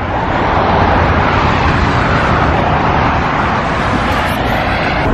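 Road traffic: a vehicle passing close by, its tyre and engine noise swelling over the first couple of seconds and then slowly easing.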